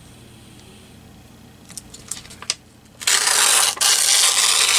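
Paper being worked on a glass craft mat while its white edges are trimmed off: a few light clicks, then about three seconds in a loud scraping rasp that carries on for about two seconds.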